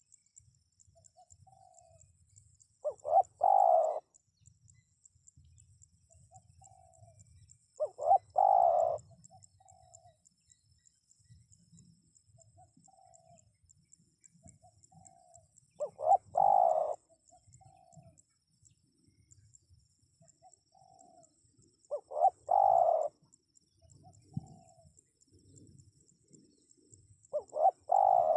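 Spotted dove (tekukur) cooing: the same call phrase five times, about every five to six seconds, each a soft short note or two, then a loud rolling coo about a second long, then a soft trailing note.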